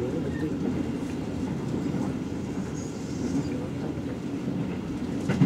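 Steady rumble of a passenger train running along the track, heard from inside the carriage. There is one sharp knock near the end.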